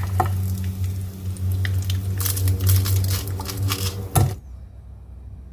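Egg rolls frying in hot oil, with scattered crackles and pops over a steady low hum. Both stop abruptly about four seconds in.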